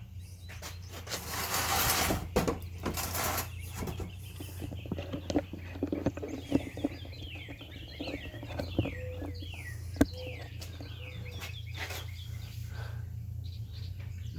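Wild songbirds singing and chirping, a run of quick falling notes, over a steady low rumble. A brief rush of noise comes in the first few seconds.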